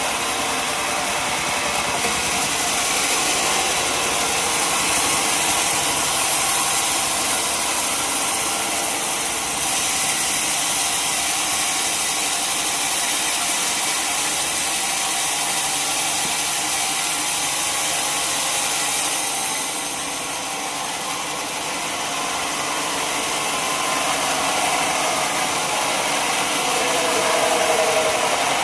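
Sawmill machinery running steadily with a dense, hissing engine-and-saw noise. It eases off briefly about twenty seconds in, then builds back up.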